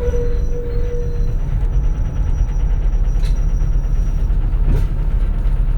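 Cabin sound of a 2004 CNG (natural-gas) city bus: steady low engine and road rumble. A sharp click comes about three seconds in.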